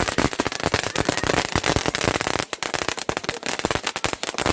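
Consumer fireworks going off close by, giving a dense, rapid run of crackles and small bangs.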